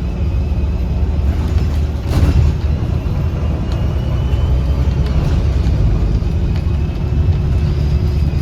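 2009 Gillig BRT 40-foot transit bus heard from inside, its diesel engine and Voith transmission running with a steady low drone. A faint thin high whistle comes and goes over it, and there is a bump about two seconds in.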